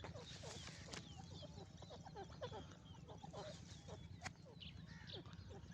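Faint, busy chirping and clucking of many birds, with short calls overlapping throughout, some falling in pitch, over a steady low hum.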